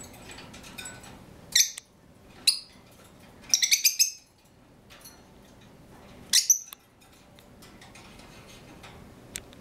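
Pet birds giving short, sharp, high-pitched calls: single calls a second and a half and two and a half seconds in, a quick run of several calls around four seconds in, and another at six and a half seconds.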